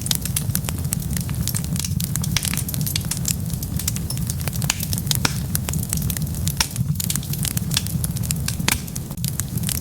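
Wood fire burning with dense, irregular crackling and popping over a steady low rumble of flames.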